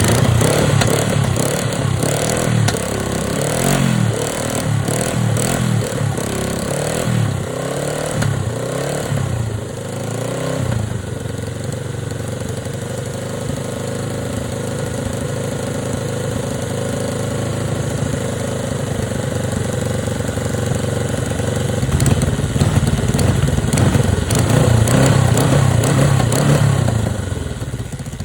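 Honda CJ360's air-cooled parallel-twin motorcycle engine running: revved up and down for about the first ten seconds, settling to a steady idle, then revved again near the end. A little quieter with a makeshift exhaust patch, though the exhaust still leaks badly on one side.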